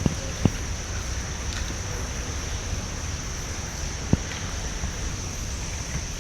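Steady ambience of an indoor zoo exhibit hall: a constant high-pitched hiss over a low rumble, with two soft knocks, about half a second in and about four seconds in.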